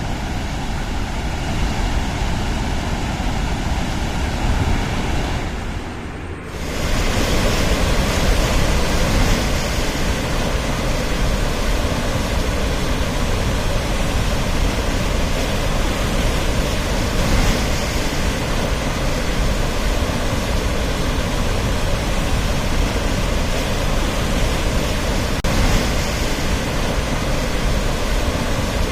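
Steady rush of floodwater, an even roar of churning water. It drops away briefly about six seconds in, then comes back a little louder.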